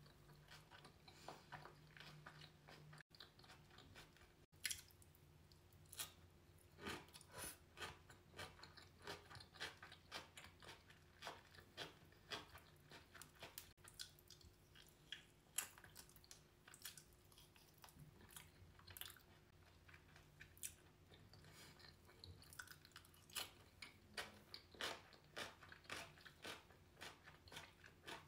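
Faint close-miked chewing and wet mouth smacks while eating soft boiled potato and mackerel: a quick run of short clicks and squelches, several a second, busier from about six seconds in.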